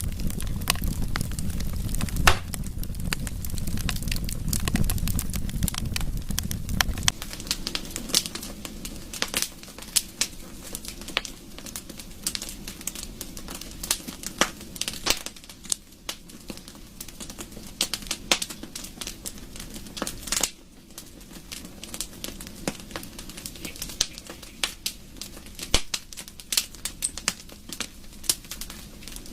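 Wood fire crackling, with many irregular sharp pops and snaps, one louder pop about two seconds in. A low rumble under the crackle drops away about seven seconds in.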